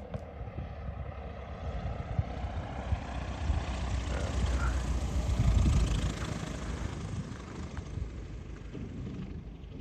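Light aircraft engine and propeller of a 1994 Maule MX-7-180 passing close by. It builds to its loudest about five and a half seconds in, then fades away.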